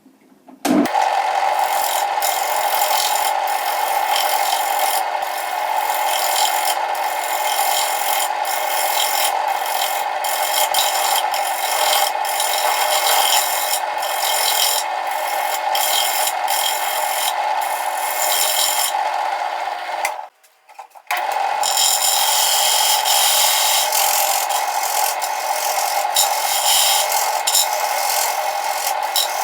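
Wood lathe spinning a plywood disk while a turning tool scrapes its face to true up a slight wobble. It makes a steady cutting noise with frequent ticks, and stops abruptly for about a second some twenty seconds in before resuming.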